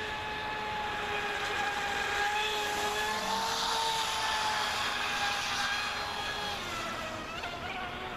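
RC boat's 1400 kV brushless inrunner motor and outboard drive whining at speed. The pitch holds steady, rises slightly around the middle, and wavers near the end.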